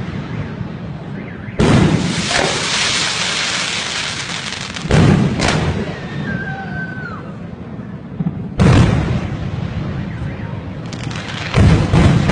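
Fireworks going off: four loud bursts about three seconds apart, each trailing off in a long crackle.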